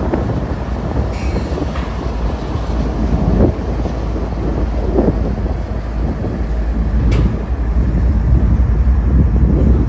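Union Pacific double-stack intermodal freight train rolling past, a diesel locomotive and then container well cars: a steady low rumble with scattered knocks from the wheels and cars, one sharp click about seven seconds in.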